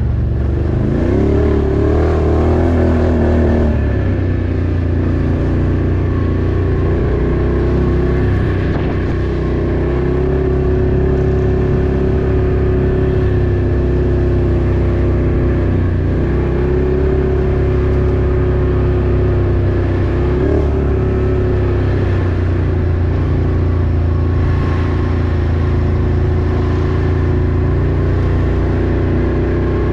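Off-road vehicle engine running under way, revving up about a second in, then holding a steady pitch, and revving up again near the end.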